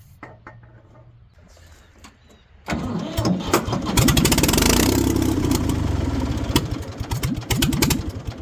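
1973 Ford 4500 backhoe's diesel engine being cranked and catching about three seconds in, then running loud and rough for about five seconds, its firing turning uneven near the end.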